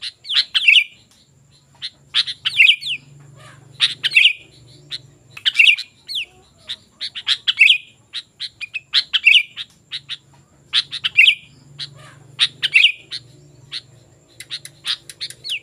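Sooty-headed bulbul singing loudly and persistently, a short bubbly call phrase repeated about every one and a half seconds, with quick sharp chirps between phrases.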